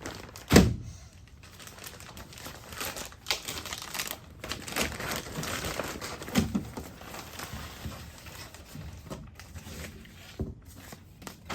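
Tailgate-seal packaging being opened and handled: irregular crinkling and rustling, with a sharp knock about half a second in.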